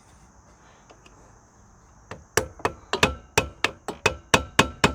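Hammer striking metal in a quick run of sharp, ringing blows, about four a second, starting about two seconds in: knocking at a rusted drive chain link that won't come off.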